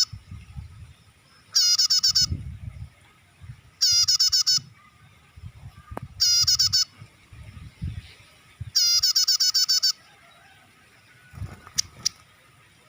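Prinia (prenjak) call played as a bird lure: loud, fast trills of harsh notes, each about a second long, repeated about every two and a half seconds, four times, with a faint low rumble underneath.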